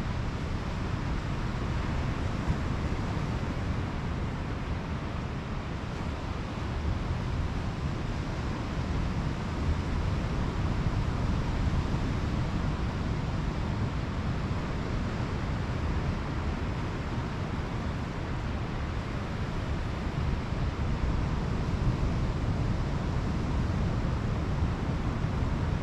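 Pacific Ocean surf washing on a sandy beach: a steady rush of breaking waves, heavy in low rumble, rising and falling gently in slow swells.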